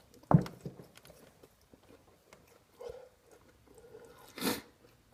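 A person chewing and biting a mouthful of fast food close to the microphone, with small wet clicks throughout. A sharp knock comes about a third of a second in, and a short noisy rush comes near the end.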